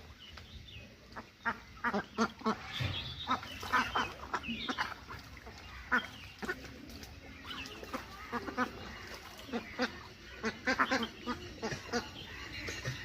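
Ducklings feeding and calling, with a dense run of quick clicks and smacks from their bills at the tomato and short high peeps over them.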